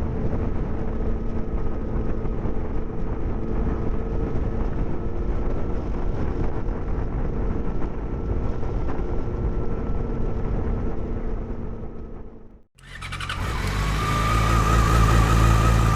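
Yamaha FZ6 Fazer's 600cc inline-four running at a steady cruise through a homemade baffled exhaust. About twelve seconds in it fades out and cuts off, and a louder engine sound with a wavering whine takes over.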